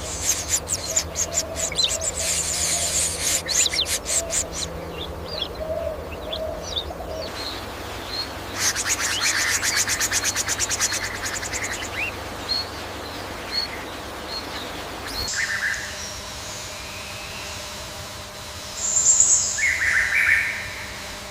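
Birds calling in forest ambience: two spells of rapid trilling chatter, scattered short chirps, and a louder burst of calls near the end.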